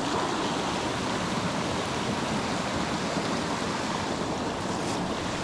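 Small mountain creek flowing, a steady rush of moving water.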